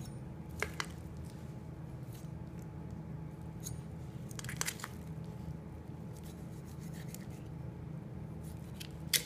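Knife and hands working a raw whole chicken as a leg is cut away and worked out of its joint: squishy handling of wet meat and skin with a few sharp clicks, a pair near the start, another pair in the middle and one near the end. A steady low hum runs underneath.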